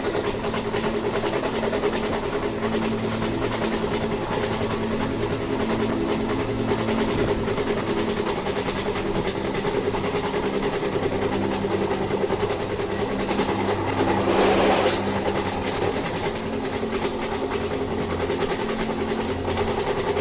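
A train running along the track with a steady rumble, a constant low hum and faint clatter from the rails. About fourteen seconds in, the noise briefly swells to a louder rush.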